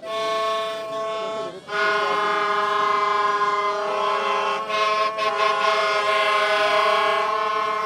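A loud, horn-like chord of several held tones, breaking off briefly about a second and a half in, with some of its notes shifting partway through.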